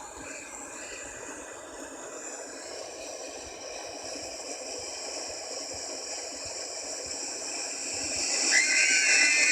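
Steady rushing water from a splash boat ride, growing louder toward the end, with a brief high wavering tone about eight and a half seconds in.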